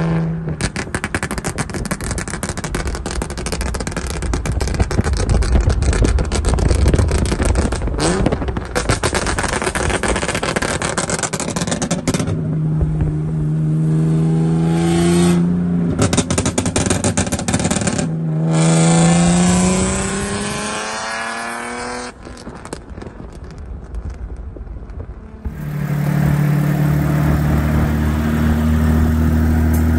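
Infiniti G37's 3.7-litre V6 running with no exhaust fitted, loud and raw, with a dense crackle through the first dozen seconds. About halfway through it revs in a few pulls that rise in pitch. It eases off, then runs at a steady pitch near the end.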